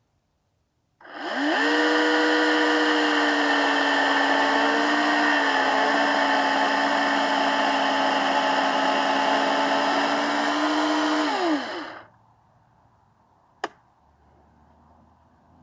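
Electric chainsaw spinning up and running for about eleven seconds under load while cross-cutting wood. Its whine drops slightly in pitch partway through, then winds down, and a sharp click follows near the end.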